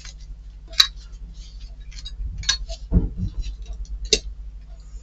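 Light clicks and taps of small model-engine parts being handled and fitted together, with a sharp click about a second in and another near the end, and a duller knock in the middle, over a steady low hum.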